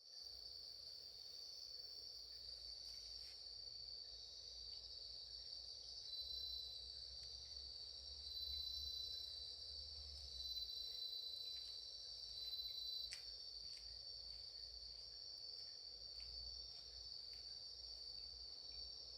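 A steady chorus of calling insects, with a second insect's thinner trill joining in and dropping out through the middle. A few faint, sharp pops from a campfire.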